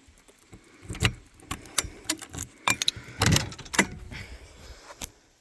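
A series of clicks, knocks and jingly rattles from handling the RV door and gear while getting in out of the rain, with a heavier knock about a second in and a burst of louder knocks a little after three seconds.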